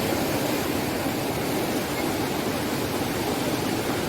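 Steady rush of river water flowing over rocks, a loud even roar.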